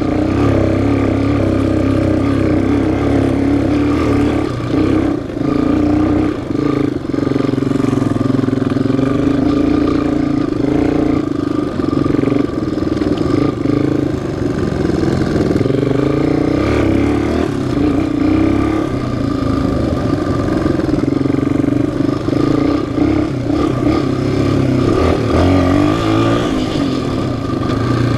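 Off-road machine's single-cylinder four-stroke engine running under way, its pitch rising and falling with the throttle.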